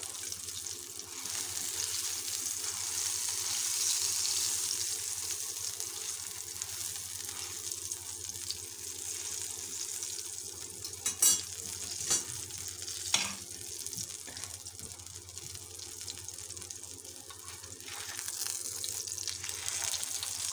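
Oil sizzling steadily as a paratha fries on a flat iron tawa, swelling a few seconds in and again near the end. A few sharp clicks a little past halfway.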